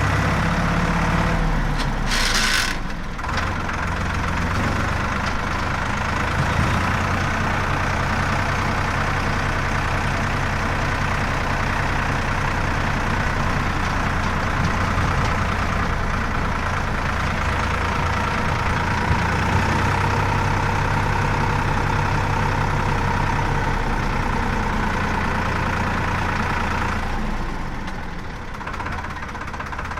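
Heavy diesel engine running steadily, with a brief hiss about two seconds in.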